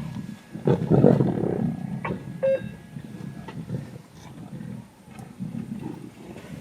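Lions growling in low, rough bursts, loudest about a second in, with a short high call about two and a half seconds in.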